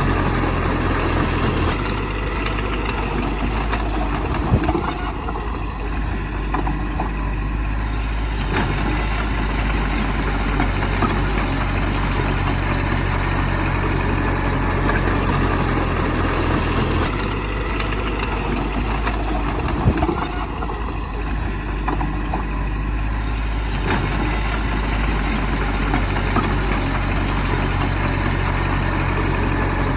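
Heavy diesel engine of earth-moving machinery running steadily, with two sharp knocks, one a few seconds in and one about two-thirds of the way through.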